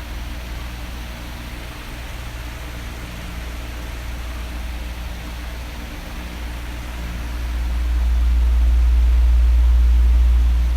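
Electric fan running: a steady airy whoosh with a low rumble underneath that swells about two-thirds of the way through and eases off near the end.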